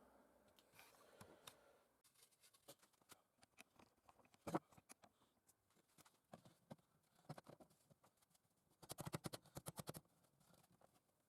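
Faint, scattered clicks and taps of small hard objects being handled, with one sharper knock about four and a half seconds in. Near the end comes a quick run of about a dozen rapid clicks lasting about a second.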